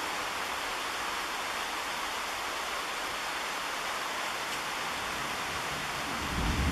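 Rain falling, a steady even hiss; about six seconds in, a low rumble of thunder starts and grows louder.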